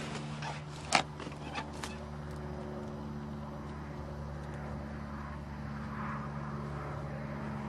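Suzuki GS850G's inline-four engine idling steadily on choke just after a cold start, running on only one cylinder, which the owner puts down to bad coil packs and fouled spark plugs. A sharp click about a second in.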